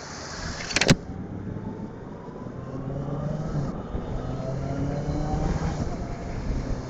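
Honda CBR650F's inline-four engine accelerating on the road, its revs rising twice over road noise. A sharp click about a second in.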